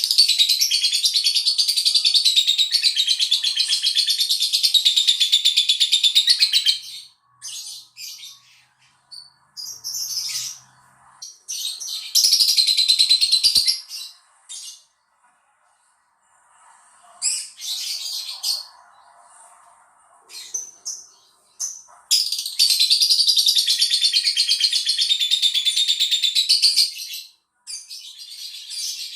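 Lovebird singing in long, rapid, high-pitched chattering trills, the kind of extended 'ngekek' chatter used as a lure to set other lovebirds singing. Three long runs of several seconds each, with shorter bursts and pauses between them.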